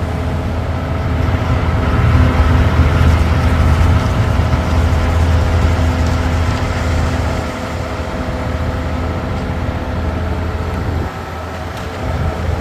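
Large diesel engine running steadily with a deep, even hum, a little louder for the first several seconds and then easing off slightly.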